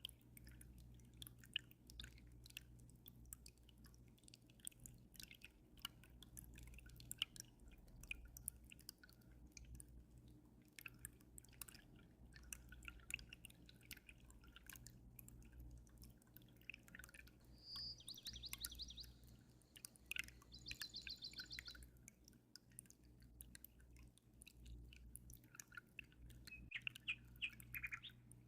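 Faint aquarium water sounds, many small drips and pops over a steady low hum. A small bird trills quickly twice a little past the middle and calls again near the end.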